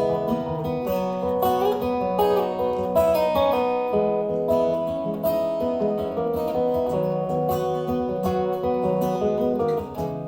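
Live folk music with no singing: an instrumental break led by strummed acoustic guitar, with held notes moving over a steady strum.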